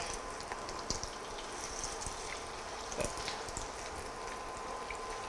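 Fish cakes shallow-frying in oil in a non-stick pan: a soft, steady sizzle, with two light clicks of a spatula on the pan, about a second in and again about three seconds in.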